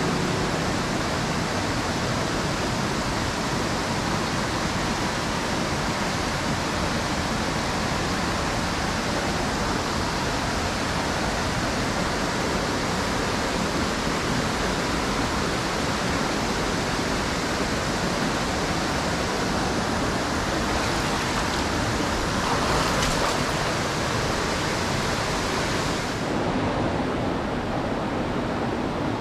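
Mountain stream water rushing, a steady dense noise. The highest part of the hiss dulls slightly near the end.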